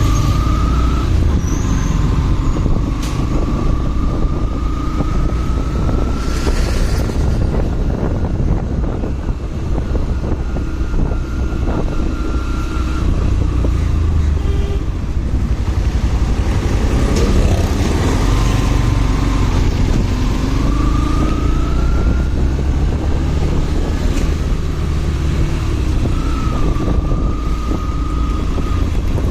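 Motorcycle riding in city traffic, heard from the rider's mic, with a steady low rush of wind and road noise. A faint engine tone rises in pitch several times as the bike speeds up.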